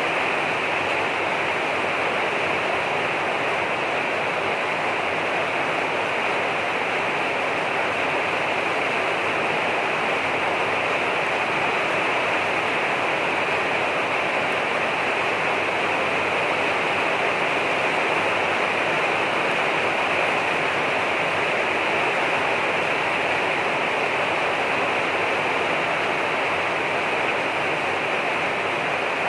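Steady heavy rain falling, an even hiss with no pauses or single drops standing out.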